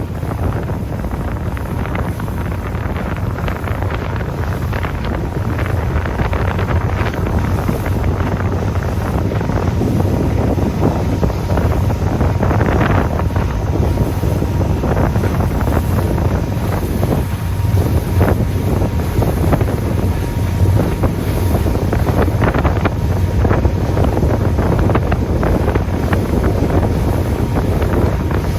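Wind buffeting the microphone aboard a moving motorboat, over the boat's engine and water noise: a dense, steady rush heaviest in the low end, swelling now and then.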